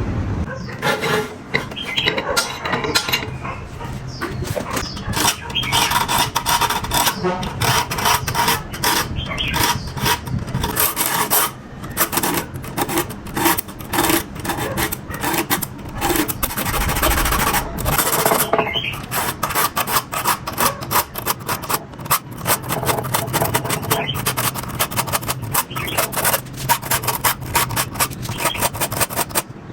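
Hand filing or rubbing: a long run of quick, irregular strokes.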